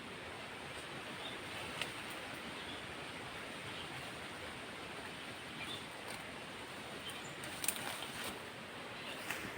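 Outdoor ambience: a steady hiss of open-air background noise with a few faint, short high chirps and three sharp clicks, about two seconds in, near the end, and just before it.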